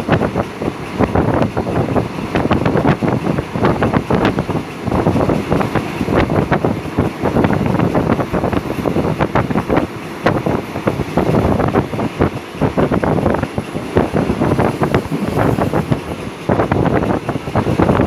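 Passenger train coach running at speed: a steady rush of wind on the microphone over a dense rattle and clatter of the carriage and its wheels on the rails.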